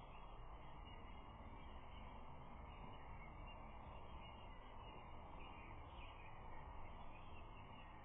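Faint, steady outdoor background noise from a nest-camera microphone, with faint distant bird calls.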